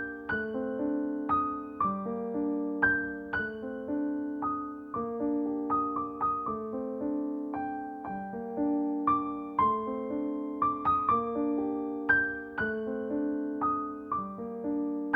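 Background piano music: a gentle repeating pattern of single notes, struck about twice a second, each dying away.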